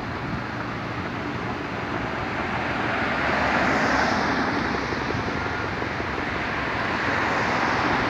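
Steady road traffic and wind noise that swells about three seconds in and again near the end.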